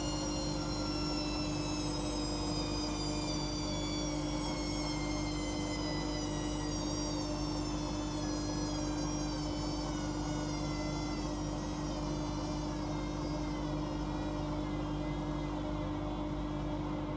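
Washing machine drum slowing down after a spin: the motor's whine falls slowly and steadily in pitch over a constant low hum.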